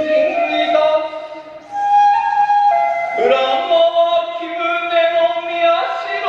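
Hiroshima kagura music: a melody of long held notes that slide from pitch to pitch, dipping quieter for a moment about a second in.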